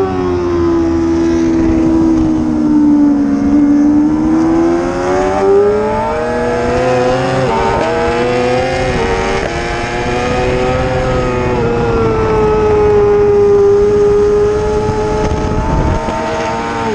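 Racing motorcycle engine running hard: its pitch drops for the first few seconds, then climbs with a few small breaks as it accelerates, and holds high and steady through the second half.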